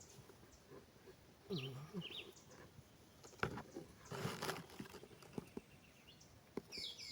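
Light clicks and rustles of thin wooden sticks being handled and set in place, with an animal call about one and a half seconds in and bird chirps near the end.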